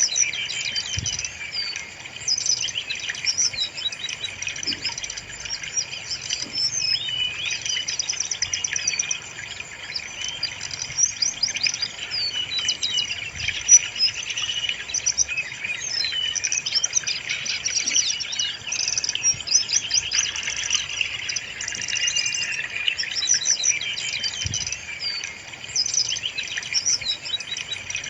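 Brown-chested jungle flycatcher (sikatan rimba dada coklat) singing continuously, a dense run of quick, varied high-pitched chirps and trills.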